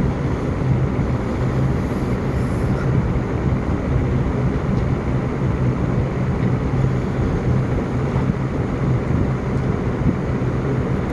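Steady low hum over a constant rushing noise, like a running vehicle heard from inside, with no distinct events.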